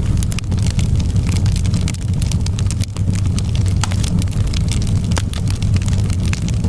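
Wood fire crackling: frequent small sharp pops and snaps, irregularly spaced, over a steady low rumble.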